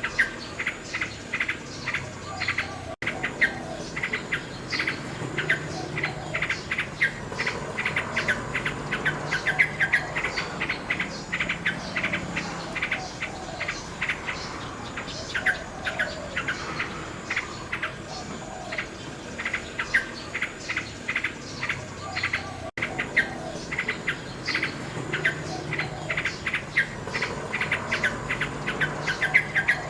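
Nightingale singing, with fast runs of short, sharp repeated notes and some lower warbling phrases. The sound drops out for a moment twice, about 3 and 23 seconds in.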